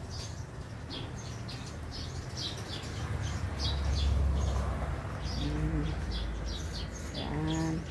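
A small bird chirping repeatedly, short high chirps about two to three a second, with a low rumble swelling on the microphone about halfway through.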